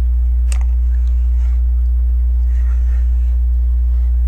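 Steady low hum throughout, with plastic LEGO pieces being handled over it: one sharp click about half a second in, then a few faint clicks and rustles.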